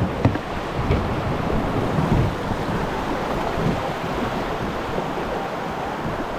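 Fast river water rushing and splashing around a kayak running a riffle, a steady wash of noise with a couple of light knocks in the first second.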